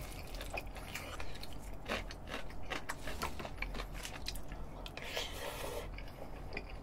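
Close-up chewing of a mouthful of rice, with many small wet mouth clicks and smacks. A wooden spoon scrapes and taps in a ceramic bowl now and then.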